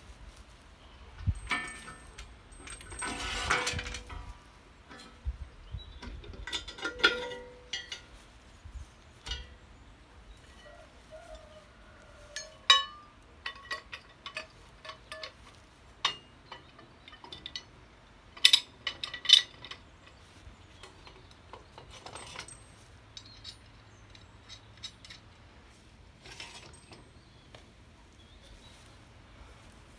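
Irregular metallic clinks and knocks, some ringing briefly, with a louder rustling clatter about three seconds in.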